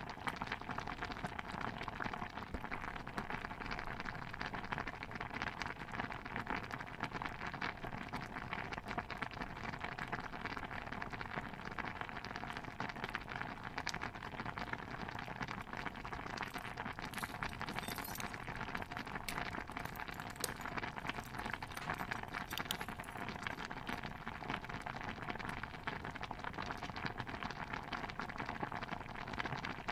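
Stew bubbling steadily in a pot, a dense run of small pops and crackles, with a few sharper clicks more than halfway through.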